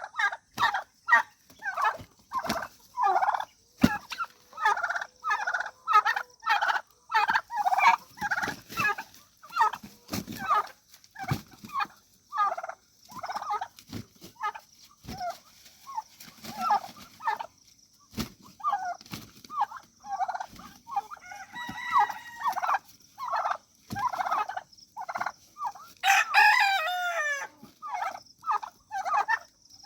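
Turkey and roosters calling: a steady run of short clucking and gobbling calls, several a second, with one longer, fuller call about 26 seconds in.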